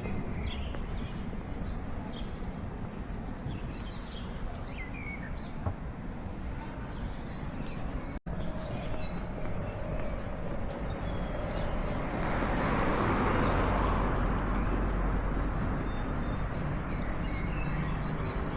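Small birds chirping now and then over a steady hum of background city noise. A louder rushing noise swells up about two-thirds of the way through and eases off, and the sound drops out for an instant a little before halfway.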